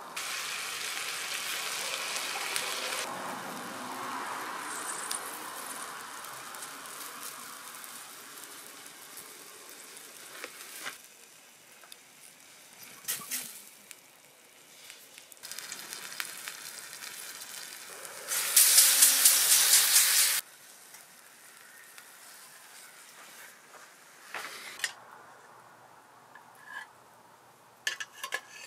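Food sizzling as it fries over high heat. The sizzle is strong at the start and dies down to a softer crackle with scattered clicks and taps. About two-thirds through, a much louder burst of sizzling lasts about two seconds and cuts off suddenly.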